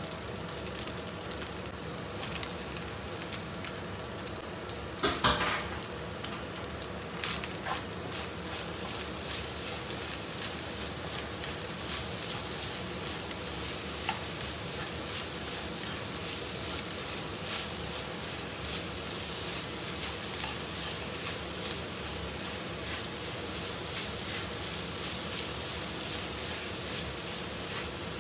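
Imitation crab and mixed vegetables sizzling steadily in a non-stick wok, stirred and scraped with a plastic spoon. A brief louder sound comes about five seconds in.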